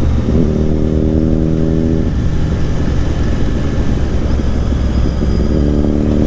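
Royal Enfield Interceptor 650 parallel-twin motorcycle being ridden, with a steady rumble of engine and wind on the microphone. Twice the engine note settles into a steady pitch for a second or two, once near the start and again near the end.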